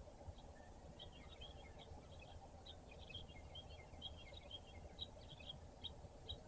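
Small birds chirping rapidly and faintly, a dense run of short high chirps, over a steady low background rumble.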